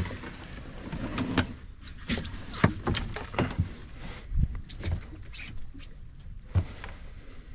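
Irregular knocks, clicks and scrapes of a kayak and its paddle being worked through tight swamp cover, several with a dull thud.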